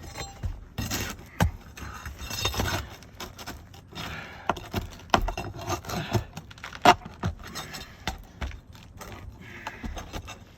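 Irregular scraping and sharp clicks of hand tools working a damaged asphalt roof shingle loose, the loudest click about seven seconds in.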